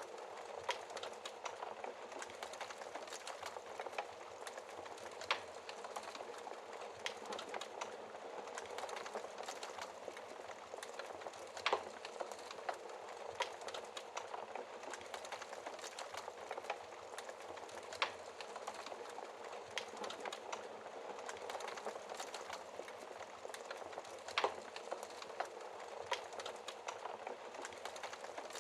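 Wood fire crackling in a fireplace behind a glass door: a steady hiss of burning with a constant patter of small pops, and a few sharper snaps every several seconds.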